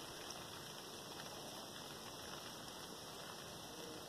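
Steady, faint hiss of rain falling at night, with a few scattered drop ticks.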